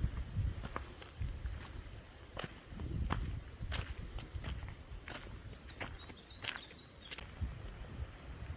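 A steady, high-pitched insect chorus with a fast pulse, over footsteps on a woodland trail. The insect sound cuts off suddenly about seven seconds in.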